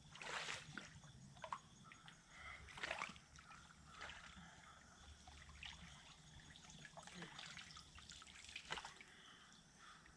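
Faint creek water trickling, with a few small splashes and sloshes scattered through as someone moves about in the shallow water.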